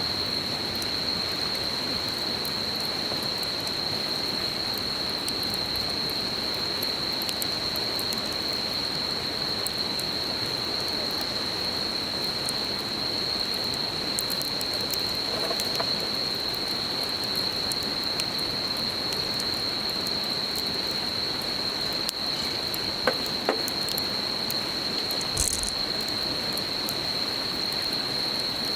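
Campfire crackling with scattered small clicks and a few sharper pops, over the steady rushing of a stream and a continuous high, even insect trill.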